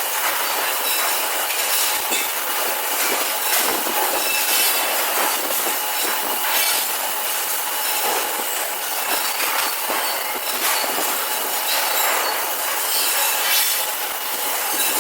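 MIG welding arc of a robotic welder, a steady dense crackling sizzle.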